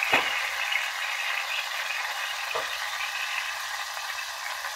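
Chapli kababs shallow-frying in hot oil in a steel pan, a steady sizzle and crackle. A metal utensil knocks lightly against the pan just after the start and again about two and a half seconds in.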